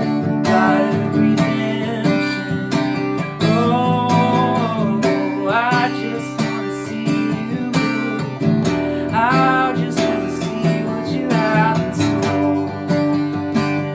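Acoustic guitar strummed in a steady rhythm. A voice sings sliding melodic phrases over it about four seconds in, again around nine seconds, and briefly near the end.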